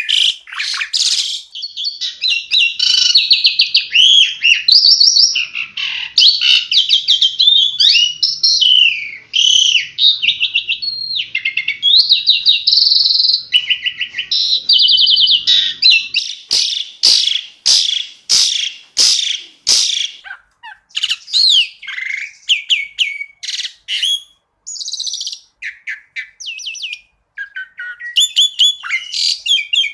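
Asian pied starling (jalak suren) singing a varied, loud song of whistles and rapid trills. About halfway through comes a run of sharp clicks, and the notes then become sparser and more spaced out.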